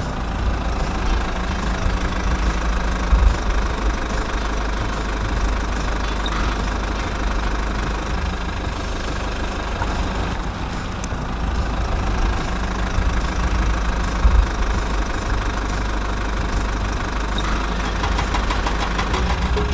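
An engine running steadily at an idle-like pace with a knocking, low hum and a couple of small louder jolts.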